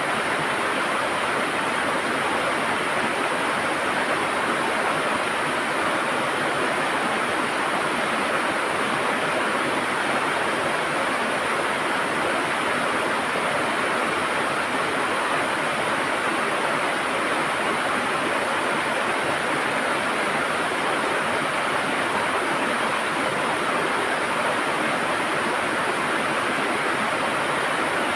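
River water flowing and gurgling steadily, an even rushing noise with no breaks.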